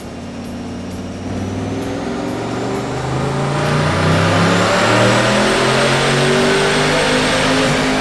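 Turbocharged Camaro's engine at full throttle on a chassis dynamometer, its pitch climbing steadily as the revs rise through a power pull, getting louder over the first five seconds and then holding high, with a faint high whistle rising along with it.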